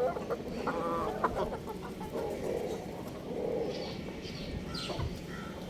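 Young rooster clucking and making short wavering calls, with brief high chirps in the second half.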